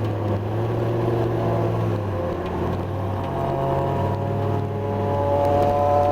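Motor vehicle engine running steadily at low revs, its pitch rising slightly in the last couple of seconds.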